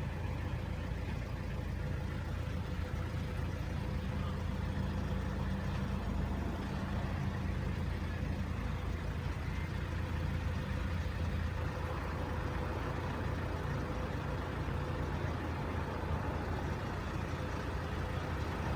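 A motor vehicle's engine idling with a steady low rumble and a faint steady hum above it.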